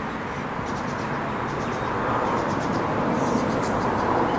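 Outdoor traffic noise, a steady rush of passing vehicles that swells slightly about halfway through.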